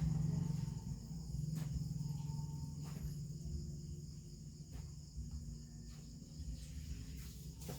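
Insects trilling steadily, high-pitched, over a low steady hum, with a few faint clicks.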